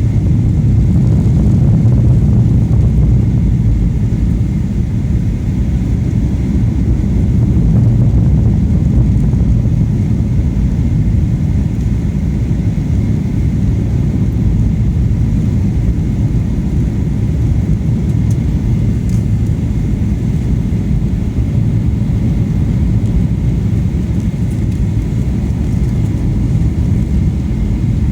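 Steady low rumble of engine and airflow noise heard inside an airliner's passenger cabin on approach to landing.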